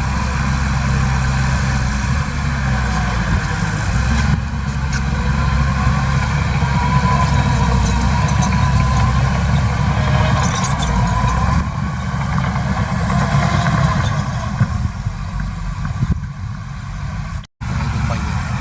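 Heavy diesel earthmoving machinery running with a steady, deep engine drone. The sound drops out for a moment near the end.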